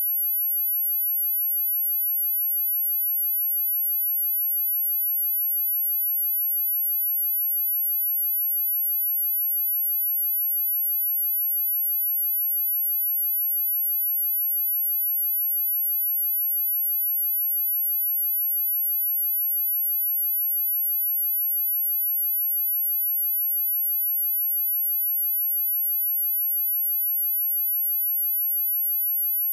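A continuous pure sine-wave test tone at 11697 Hz, a steady very high-pitched whine that holds the same pitch and loudness throughout.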